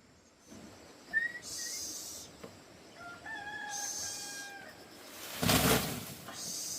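A rooster crowing once, a long held call, with a short high chirp before it. A loud brief rustling thump comes about five and a half seconds in.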